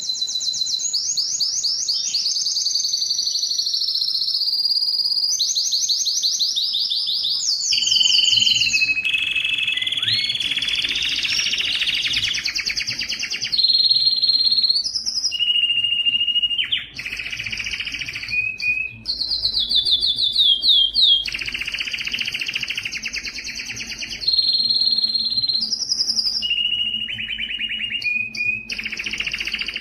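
Domestic canary singing a continuous song of fast high trills and rolled tours, changing from one phrase to the next every second or two.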